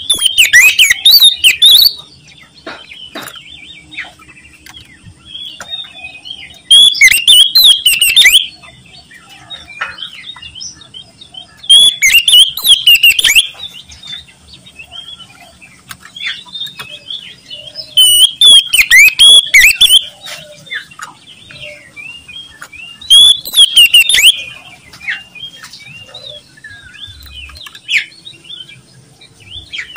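Oriental magpie-robin (kacer) singing loudly, with five bursts of fast, high whistled song, each about two seconds long and coming every five or six seconds, and softer twittering phrases between them.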